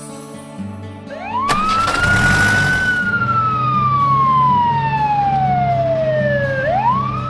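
Siren sound effect: a single wailing tone that rises, falls slowly over about four seconds, then rises again near the end. A burst of hissing noise starts sharply about one and a half seconds in and lasts about a second and a half, over quiet background music.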